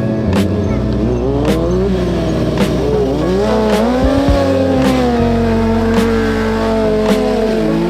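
Motorcycle engine revving, its pitch climbing and falling for the first few seconds, then holding a steady high note with a brief dip near the end. Sharp clicks recur about once a second.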